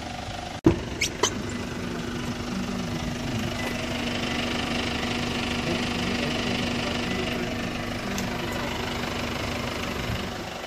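2006 Hyundai Tucson's engine idling steadily. About a second in there is a sharp knock followed by two quick clicks as the front door is opened.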